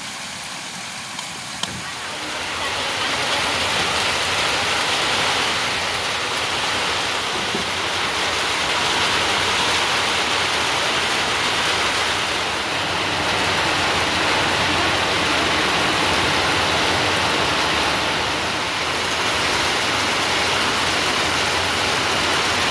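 Heavy rain falling, a steady hiss that grows louder about two seconds in, with a single short click just before.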